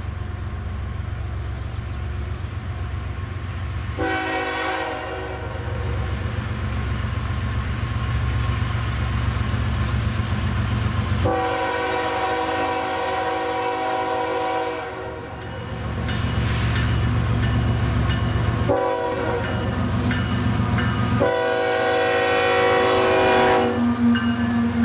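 Freight train's diesel locomotive horn sounding several chord blasts for a grade crossing, the longest held for about four seconds, over the steady low rumble of the approaching locomotives.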